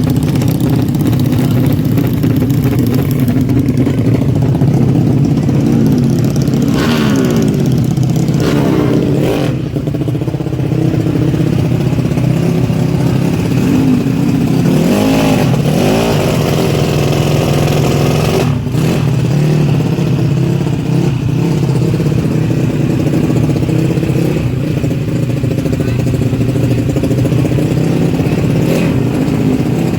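Honda Karisma's single-cylinder four-stroke engine running steadily at idle, with a few brief throttle blips where the pitch rises and falls, about a third and halfway through, while the idle speed is being set.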